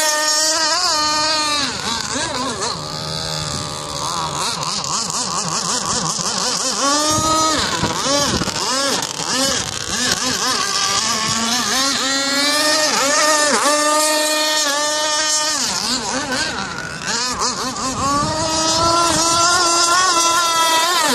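Motorboat engine running at speed, its pitch repeatedly dipping and rising as the throttle or load changes.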